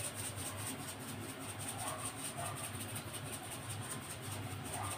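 Alamang (tiny salted shrimp) sautéing in a wok over a gas burner: a faint, steady sizzle and hiss with a low hum beneath, while salt is sprinkled in.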